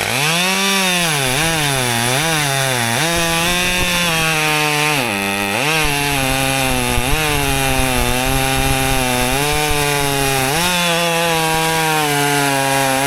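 A Husqvarna XP two-stroke chainsaw cutting into a log at full throttle. The engine pitch dips several times as the chain bites, sags deeply about five seconds in, then holds steady under load through the cut.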